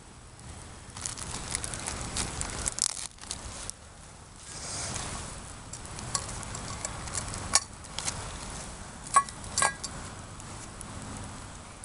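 Frozen sausage sizzling in a pot over a crackling campfire, with scattered sharp pops and crackles. Two ringing metallic clinks come close together about nine seconds in.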